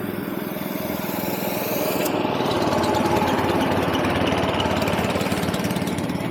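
Small single-cylinder-type engine running under way, its pulsing note growing louder over the first few seconds as it pulls, then holding steady and easing off near the end.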